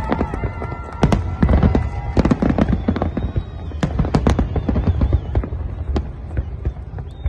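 Big fireworks display: shells bursting in rapid, overlapping bangs and crackles over a continuous low rumble, with a few held whistling tones among them.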